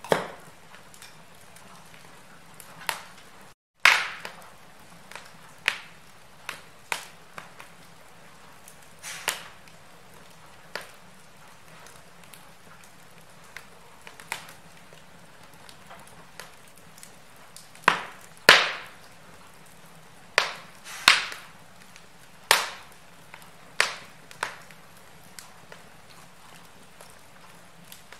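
Wood fire in a fireplace crackling: irregular sharp pops and snaps over a low steady hiss, the loudest snaps in the second half. The sound drops briefly to silence about four seconds in.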